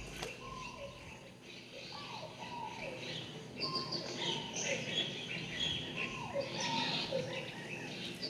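Bird chirps and calls, many short overlapping calls, several of them falling in pitch.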